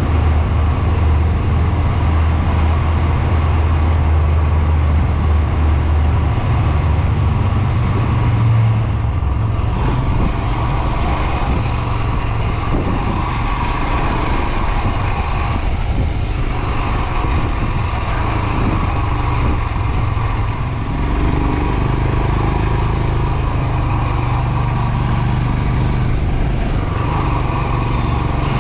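Royal Enfield Himalayan 411's single-cylinder engine running under way, its low exhaust note shifting in pitch a few times as the speed changes, over a steady rush of riding noise.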